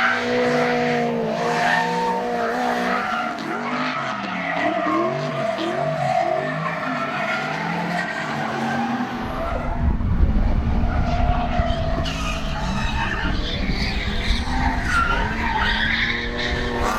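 Drift car sliding through corners: its engine revs up and down repeatedly while the tyres squeal in long screeches. From about halfway through, a heavy low rumble joins in.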